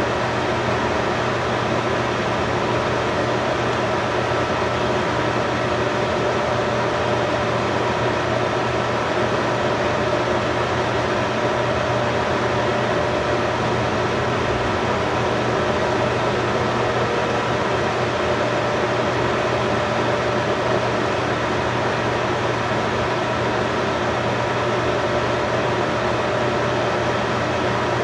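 Steady mechanical whirring noise with a faint constant hum running through it, unchanging throughout.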